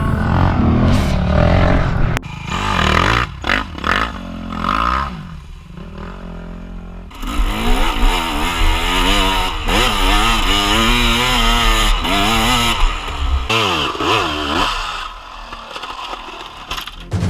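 Dirt bike engine revving up and down again and again, with scraping and clattering. The revs swing hardest in the middle stretch.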